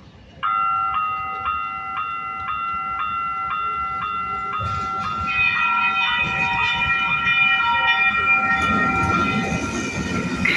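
Electronic grade-crossing warning bells start up suddenly and ring steadily at about two strikes a second. A second bell joins about five seconds in. A rumble builds near the end as a SacRT light rail train approaches.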